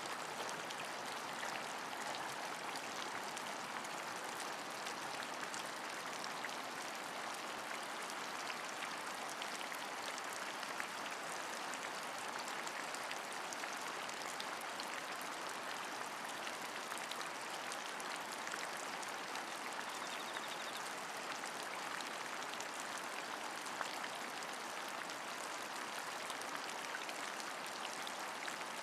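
Steady rain, an even hiss of falling water with many small drop ticks scattered through it.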